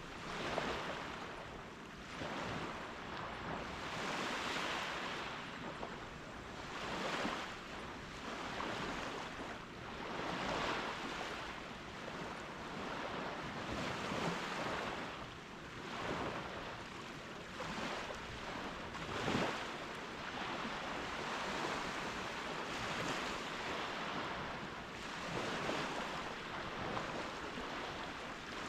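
Gentle Caribbean ocean waves breaking and washing up a sandy beach, the surf swelling and fading every few seconds.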